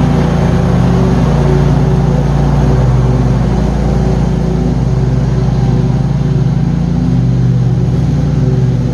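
John Deere QuikTrak 652R stand-on mower running steadily while mowing, its engine holding an even pitch.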